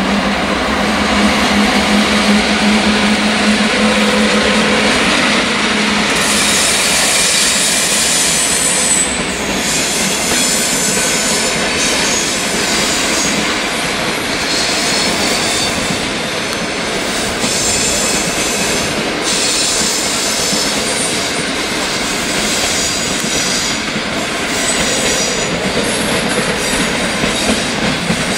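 Electric locomotive hauling a train of passenger coaches past at low speed: a steady low hum over the running noise for the first few seconds, then the wheels squealing and clicking on the rails as the coaches roll by.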